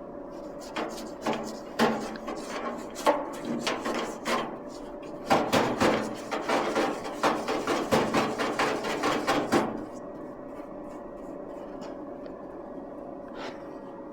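Irregular knocks and rattles of objects being handled in a workshop, scattered at first and coming thick and fast for about four seconds in the middle, over a steady faint hum.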